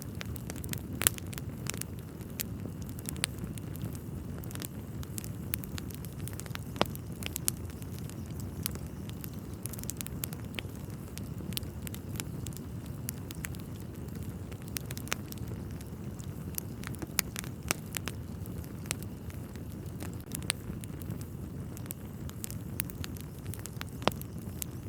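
Wood fire burning in a fireplace: irregular sharp crackles and pops, the loudest about a second in, over a steady low rumble of burning logs.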